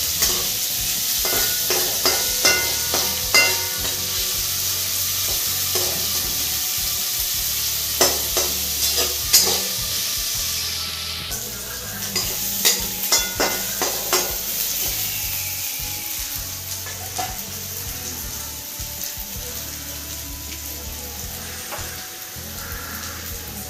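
Chopped onion, red chilli and garlic sizzling in oil in an aluminium kadhai for the tempering (tadka) of dal fry, with a metal spatula scraping and knocking against the pan in short spells of stirring. The sizzle grows quieter in the second half.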